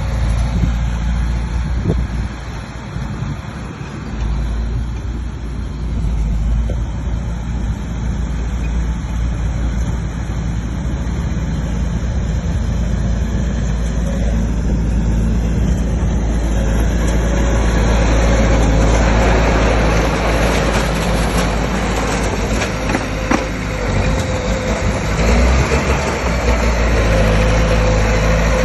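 Bulldozer's diesel engine running steadily, then working harder and louder about two-thirds of the way through as the load comes on, with a faint whine over the engine note near the end.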